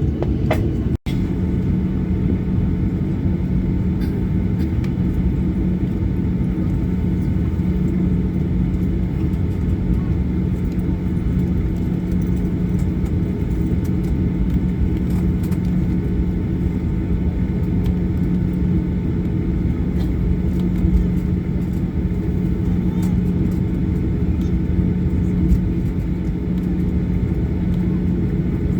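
Steady rumble inside the cabin of a Boeing 737-800 with its engines running, a steady low hum running through it. The sound cuts out briefly about a second in.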